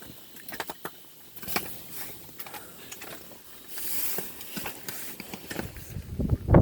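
Wind buffeting the microphone, growing to a loud low rumble near the end, with scattered crunching and rustling clicks.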